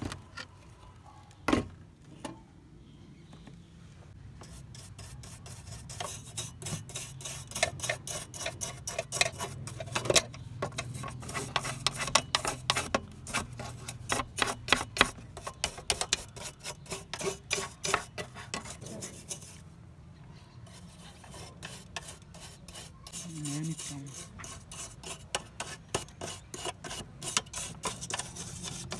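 Rapid back-and-forth abrasive rubbing strokes, as in hand-working a part during restoration. They come in long fast runs from a few seconds in, ease off around two-thirds of the way, and pick up again near the end. A single sharp knock sounds just after the start.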